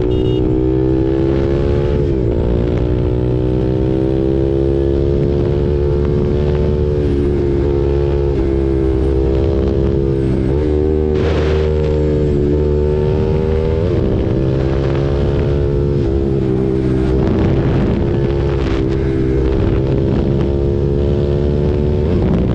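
KTM RC 390's single-cylinder engine running through an SC Project exhaust while riding. Its pitch climbs slowly and dips briefly several times, with wind noise on the microphone.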